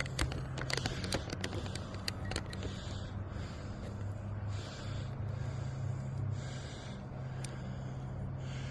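A steady low engine-like hum, with a run of sharp clicks and scuffs in the first few seconds and soft swishing noise after that.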